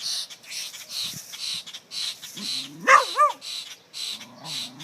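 A dog whining and giving a couple of short excited yips about halfway through, over a quick run of short hissy puffs about two or three a second.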